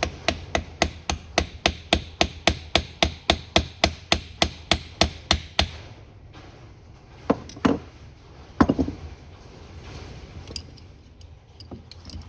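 A hammer's plastic and rubber face tapping rapidly on an aluminum carburetor, about four light blows a second for some six seconds, to break a stuck part free. This is followed by three heavier, separate knocks and then a few faint clicks of parts being handled.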